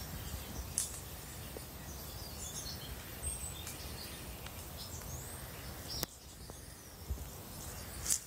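Small woodland birds chirping in short, high calls, over a low rumble on the microphone, with a few sharp clicks.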